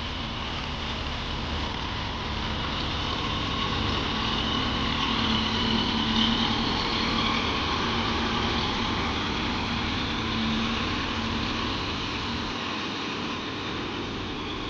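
Kubota tractor engine running steadily, growing louder about halfway through and easing off a little near the end.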